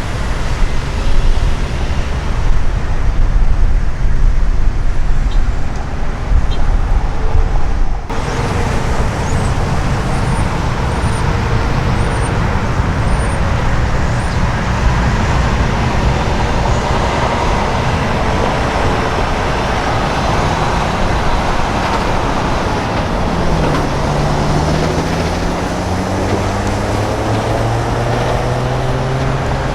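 Heavy truck traffic: a steady roar of diesel engines and tyres from passing semi-trucks, changing abruptly about eight seconds in. Near the end a truck's diesel engine rises and falls in pitch as it pulls through its gears.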